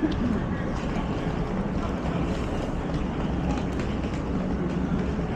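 Steady low city ambience: a rumbling wash of traffic and street noise, with no single event standing out.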